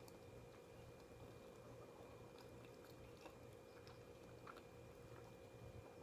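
Faint chewing and mouth sounds of someone eating, with scattered small clicks, over a steady low electrical hum.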